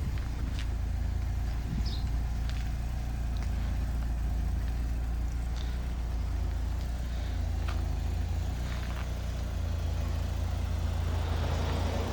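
A Vauxhall Cavalier's two-litre eight-valve engine idling steadily, with a few faint clicks.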